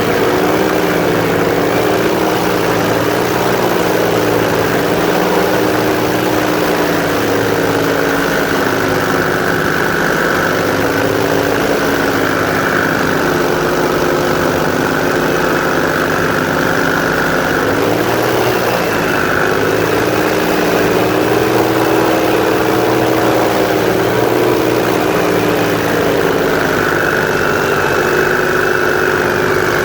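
Airboat's engine and propeller running steadily at cruising speed, with the engine pitch shifting briefly a little past halfway.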